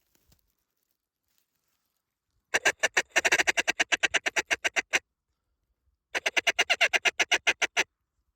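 Mallard duck call blown in two runs of rapid, even quacking chatter, about eight notes a second, the second run shorter: a feed call worked at the landing mallards.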